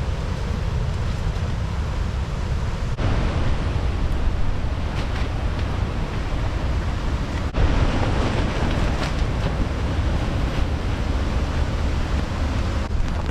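Strong wind with waves, a steady rushing noise with heavy wind rumble on the microphone. The noise shifts abruptly twice, about three and seven and a half seconds in.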